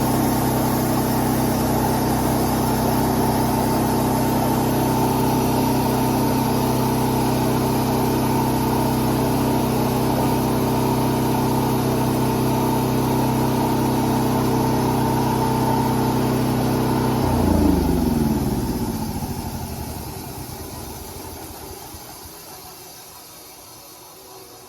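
Predator 420 single-cylinder engine on a homemade sawmill running steadily, then shut off about 17 seconds in; its pitch drops as it stops, and a fading whir follows as the mill coasts down.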